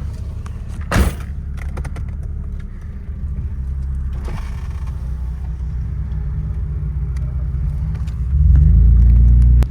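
A car driving slowly, with a steady low engine and road rumble and one sharp knock about a second in. Near the end a much louder low rumble swells up and cuts off suddenly.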